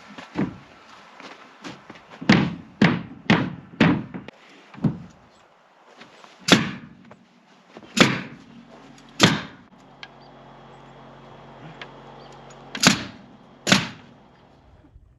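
About a dozen sharp, irregular knocks and bangs from work on plywood sheeting, fastening or setting sheets against wooden framing, with four in quick succession early and single loud ones further on. A faint steady hum joins in about ten seconds in and stops near the end.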